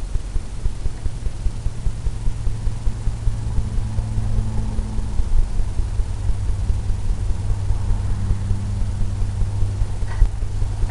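Steady low machine hum with a regular pulse in loudness.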